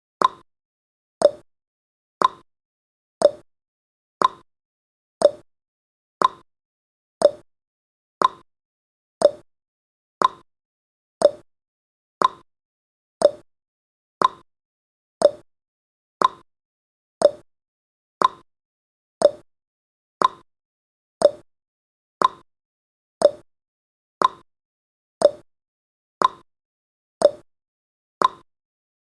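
Countdown timer's ticking sound effect: a short, sharp tick about once a second, evenly paced.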